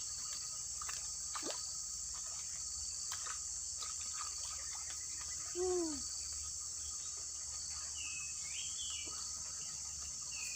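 Steady high-pitched insect chorus in tropical riverside vegetation, with a few faint clicks. About halfway through comes one short falling call, and near the end a few quick warbling bird-like chirps.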